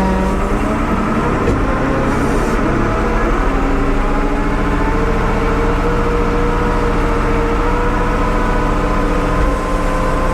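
A 1975 Ford 550 backhoe's engine running steadily. Its pitch shifts a little about three seconds in as the engine speed changes.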